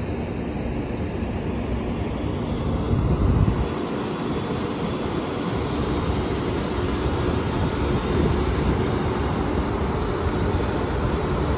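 Amtrak Acela Express electric power car standing at the platform, its cooling blowers and equipment giving a steady, loud rushing noise over a low rumble. The noise swells briefly about three seconds in and grows a little louder toward the end.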